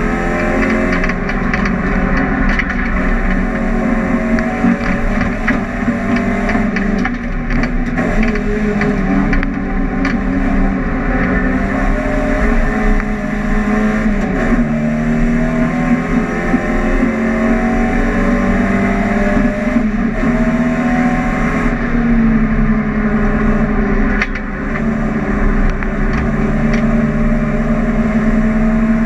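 Volkswagen Golf GTI race car's engine heard from inside the cabin under hard driving. The engine pitch climbs slowly over several seconds and falls back several times.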